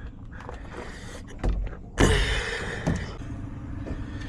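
Metal clunks and clicks of a semi truck being handled, with a loud bang about two seconds in, followed by a steady low engine hum.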